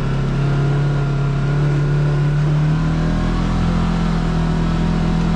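Side-by-side UTV engine running under way, its pitch climbing slowly as it picks up speed over the first few seconds, then holding steady.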